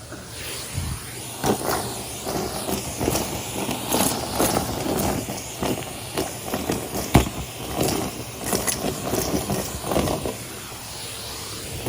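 Numatic Henry cylinder vacuum running while it sucks up a pile of fluff, with irregular crackles and ticks of debris rattling up the hose. One sharper knock about seven seconds in.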